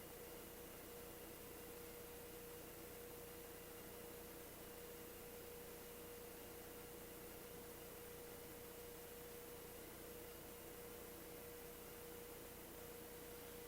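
Near silence: a faint steady hum, one unchanging tone, over a low even hiss.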